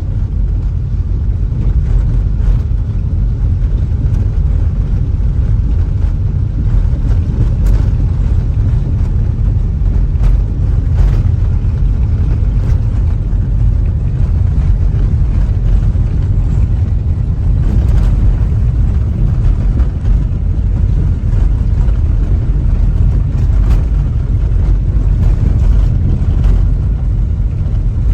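Steady low rumble of a car driving along a road: engine and road noise that holds level without change.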